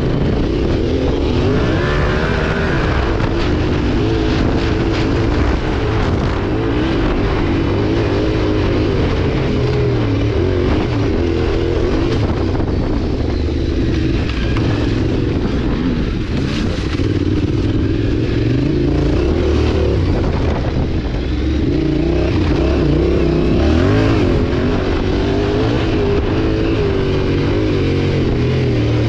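Motorcycle engine running steadily while riding, its pitch wavering up and down with the throttle.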